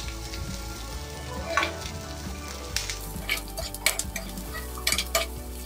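Sliced onions, green chillies and peanuts sizzling in hot oil in a nonstick pan while a metal spatula stirs them, scraping and knocking against the pan several times. The peanuts are being roasted among golden-brown fried onions.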